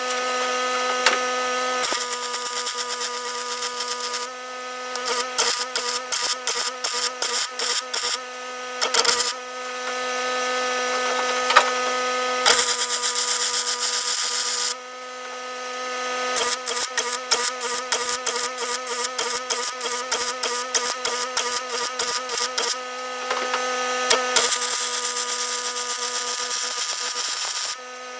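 Electric welder laying beads on aluminium sheet: stretches of steady arc hiss a few seconds long alternate with runs of short quick bursts, about three a second, over a constant buzzing hum.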